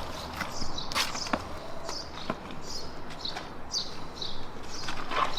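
Small birds chirping repeatedly in short high notes, over steady background noise with a few sharp clicks.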